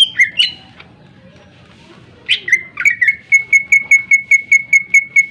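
Cucak ijo (green leafbird) singing loudly: a few sharp whistled notes at the start, then about two seconds in a down-slurred note that leads into a fast, even run of short notes on one pitch, about five a second.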